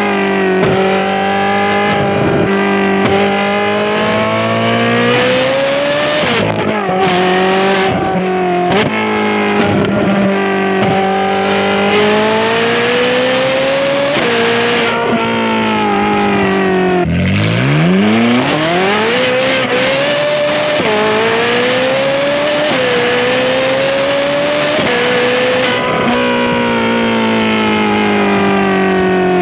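Ferrari 458's 4.5-litre flat-plane V8 on a titanium valved exhaust with free-flow front bypass pipes, accelerating hard. The pitch climbs for a few seconds, then drops suddenly at each gear change. About seventeen seconds in, the revs fall low and then climb steeply again.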